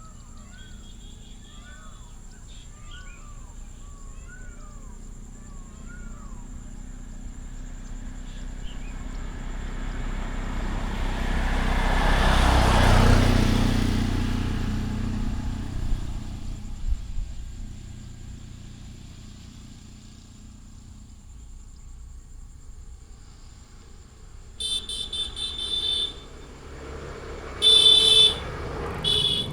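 Birds chirping at first, then a motor vehicle passes on the road, growing louder to a peak about halfway through and fading away. Near the end a vehicle horn honks three times, the first two about a second and a half long, the last short.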